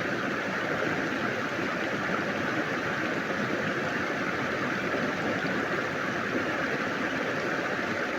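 Steady rush of flowing water from a forest stream or waterfall.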